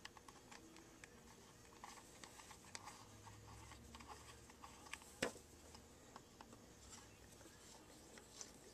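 Faint scattered clicks and light taps of small clipper parts and a tool being handled, with one sharper click about five seconds in; the clipper motor is not running.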